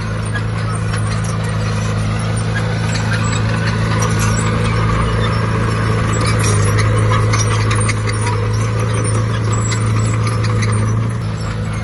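Bulldozer's heavy diesel engine running steadily under load, with dense rapid clicking and clatter over it.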